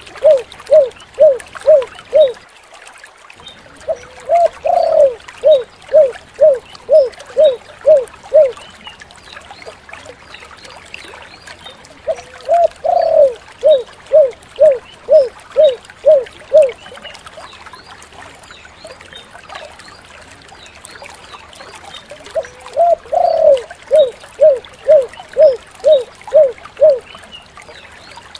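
Spotted dove (tekukur) cooing in repeated phrases: each starts with a longer coo and runs into about eight short, evenly spaced 'kuk' notes, roughly two a second. A phrase ends near the start, then three more follow, several seconds apart.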